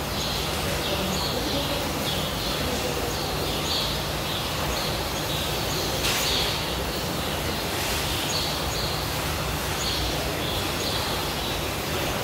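Small birds chirping again and again, short high calls about once or twice a second, over a steady background hiss of outdoor noise.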